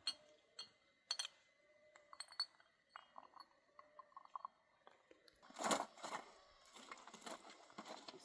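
Scattered light clinks and clicks of small hard objects, then a louder brief rustle about five and a half seconds in, followed by more soft handling sounds.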